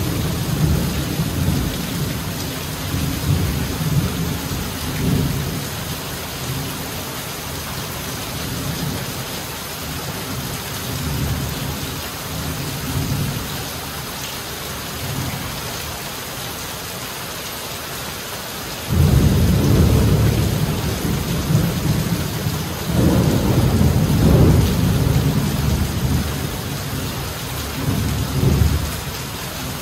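Heavy rain falling steadily on tree foliage, a constant hiss. Low rumbling swells come and go underneath, dying down mid-way and then returning suddenly and louder about two-thirds of the way through.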